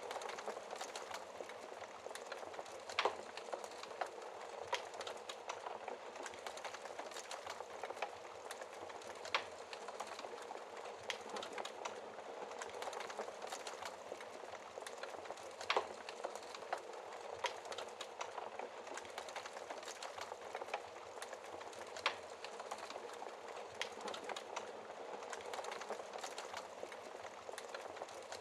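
Wood fire crackling in a fireplace: a steady soft hiss full of small crackles, with a sharper pop every few seconds.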